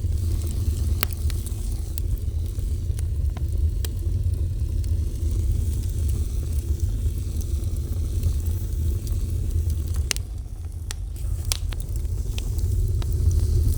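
Fire burning: a steady low roar with scattered sharp crackles and pops.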